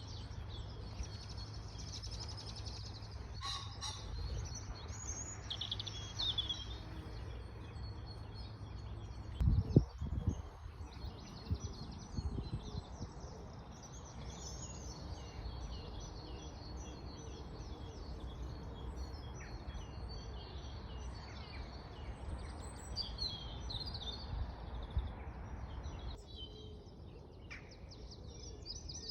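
Several songbirds chirping and singing over a steady low rumble, with one brief loud low thump a little under ten seconds in.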